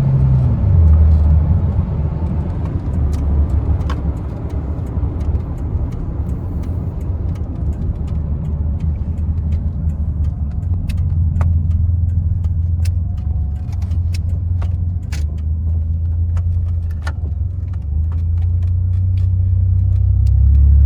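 Ford Ranger pickup being driven, heard from inside the cab: a steady low engine and road drone that drops in pitch about a second in and grows louder near the end, with scattered light clicks and rattles.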